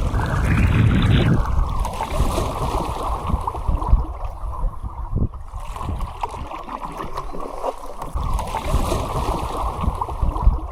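Wind rumbling on the microphone over water moving around a canoe on the river, with scattered light knocks, the sharpest about four seconds in.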